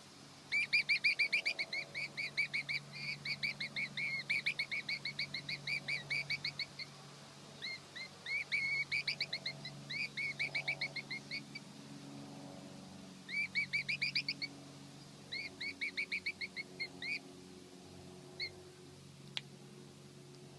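Sparrow chicks begging at the nest: runs of quick, high chirps, about eight to ten a second, in several bouts with short pauses between them.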